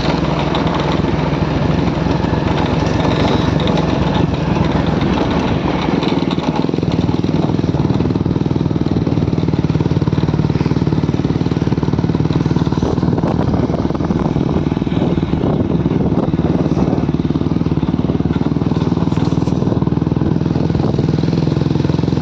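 Motorcycle engine running steadily at low road speed, over a constant rushing noise.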